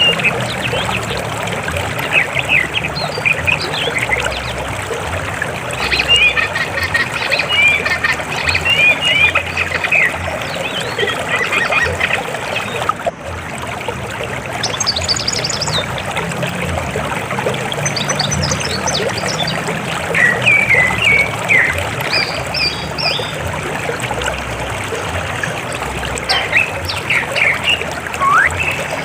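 River water flowing with a steady rush. Clusters of short, bright, high trickling and gurgling notes come and go over it.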